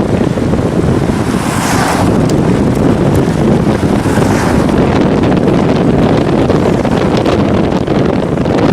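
Wind buffeting the microphone, a steady loud low rumble with two brief rushing swells, one about one and a half seconds in and one about four seconds in.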